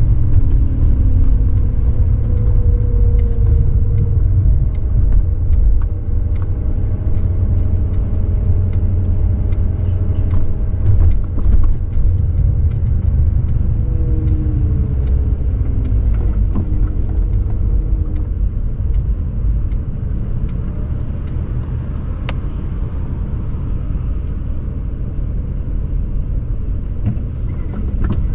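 BMW 540i's V8 exhaust rumbling while driving in town, the engine pitch falling near the start and rising then falling again about halfway through.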